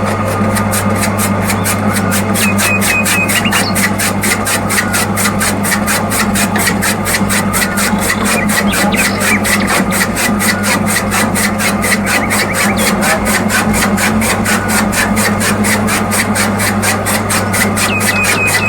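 Small electric motor of a homemade miniature chaff cutter running steadily with a constant hum, a rapid regular clicking and an intermittent high squeal.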